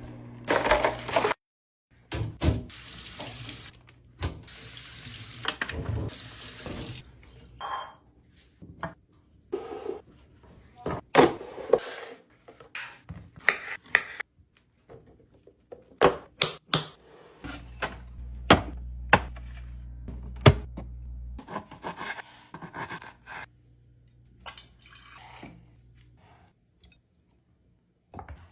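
Kitchen handling sounds in short cut-together bursts: water running as from a tap into a sink, with many sharp clicks and knocks of containers and packaging.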